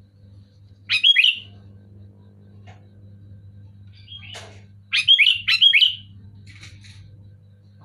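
Sooty-headed bulbul (kutilang) calling in two short bursts of quick, fluting notes, one about a second in and another around five to six seconds in. A steady low hum runs underneath.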